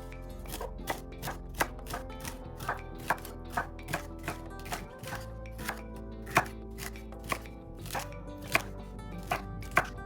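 Kitchen knife chopping celery into small pieces on a cutting board: sharp, irregular chops about two to three a second, over background music.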